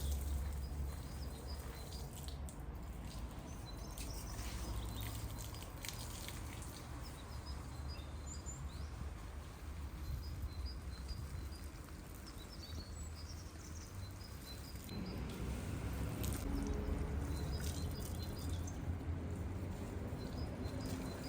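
Small birds chirping in short, repeated high notes over a steady low rumble, with scattered sharp clicks.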